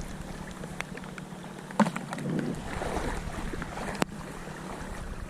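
Wind buffeting the microphone over a steady hiss of rain, with two sharp clicks, one about two seconds in and one about four seconds in.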